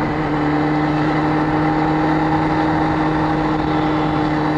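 Motorcycle engine running at a steady speed while riding, its tone holding one even pitch.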